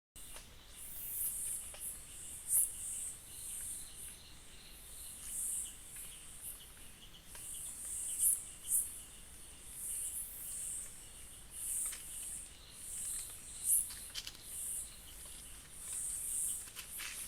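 Forest insects calling: repeated high-pitched pulses of insect song, roughly one a second, over a fainter steady buzzing, with a few sharp ticks.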